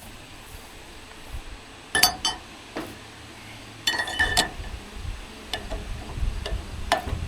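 Metal tools and parts clinking against each other as they are handled: a few sharp clinks about two seconds in, a short ringing clink around four seconds, then a few lighter taps.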